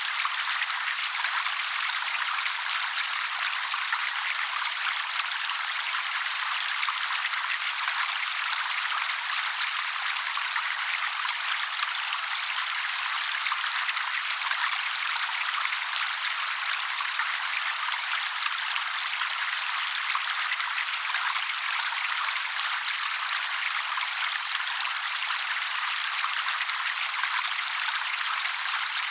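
Trickling water: a steady, even hiss of splashing water with no bass, and no birdsong over it.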